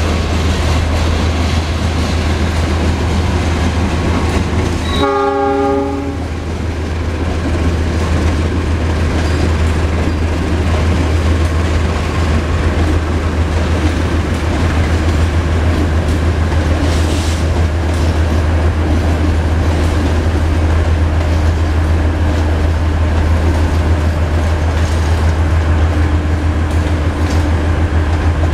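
Passenger train running along the track, heard from aboard: a steady low rumble with wheel-on-rail noise. A train horn sounds once, briefly, about five seconds in.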